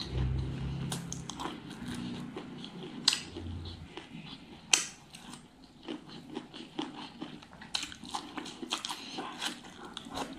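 Close-miked chewing and eating by hand: soft, wet mouth smacks and small clicks as food is chewed, with two louder, sharper clicks about three and five seconds in.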